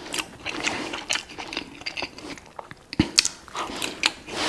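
A person chewing mouthfuls of Greek meat patties (biftekia), close to a clip-on microphone: moist smacks and small clicks. There is a single sharp click about three seconds in.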